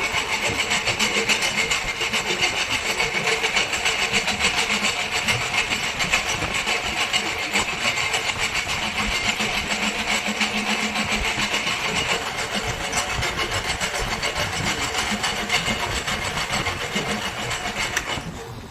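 Machinery running with a fast, steady mechanical clatter of closely repeated knocks, dropping away shortly before the end.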